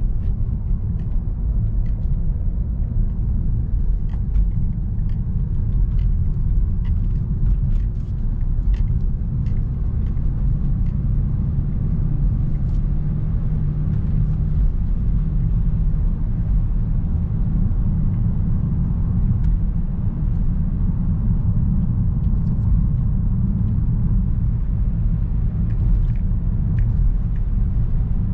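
Steady low rumble of a Ford Escape 2.0L EcoBoost being driven at an even pace, engine and road noise together, with a few faint ticks.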